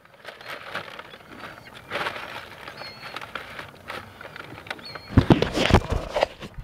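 Paper wrapper rustling and handling noise as a fast-food chicken sandwich is unwrapped, loudest about five seconds in. A few faint, short, high-pitched seagull cries come about three seconds in.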